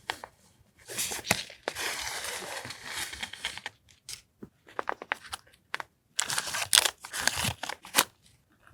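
Stationery packaging being handled and torn open by hand: a long tearing rustle, then a run of short crinkles and taps.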